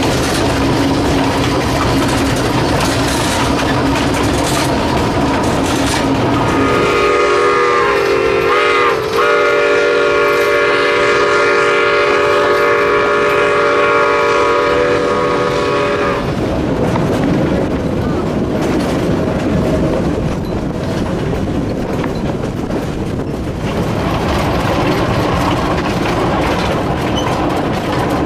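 Cumbres & Toltec narrow-gauge steam train running, with a steady loud rumble and wheel clatter on the rails. About seven seconds in, the steam whistle sounds several notes at once: a short blast that wavers in pitch, a brief break, then a long steady blast of about seven seconds.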